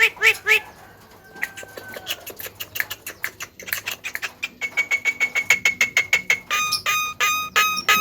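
Javan myna (jalak kebo) calling in a varied mimicking sequence. First comes a quick run of pitched chattering notes, then a quieter stretch of clicks with a short falling whistle. About halfway through, fast clicks run under a steady high whistle, and near the end come loud evenly spaced pitched notes, about three a second.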